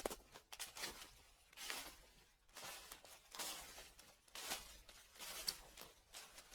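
Footsteps crunching and crackling through fallen leaves, slow and even, roughly one step a second.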